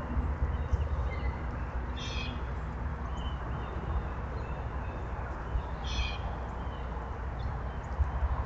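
Two short, high bird calls about four seconds apart, with a few faint chirps between, over a steady low rumble.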